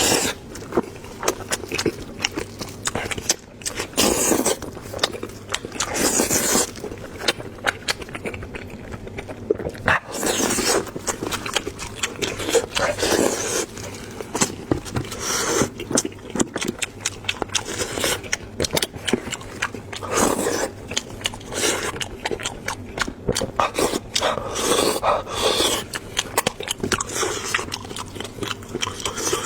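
Close-up eating sounds from braised lamb head meat: chewing, wet lip-smacking and slurping, with gnawing and scraping, in irregular bouts.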